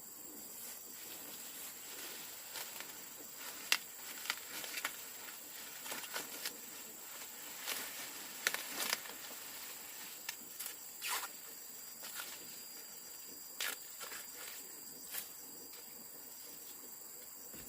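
Irregular rustling and light crackling of plant leaves being handled, heaviest around four seconds in and again about eight to nine seconds in, over a steady high insect hum.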